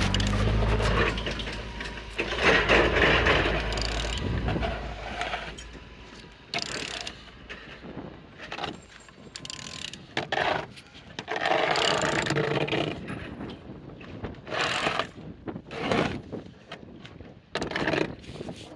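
A 5V22 engine being turned over by hand with a wrench or ratchet on the crankshaft: irregular bursts of mechanical rasping, scraping and ratchet clicks. The engine turns freely, not seized.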